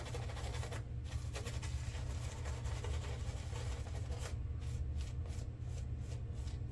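Shaving brush scrubbing lather into the face and beard, a bristly swishing that settles into even strokes about three a second in the last couple of seconds, over a steady low hum.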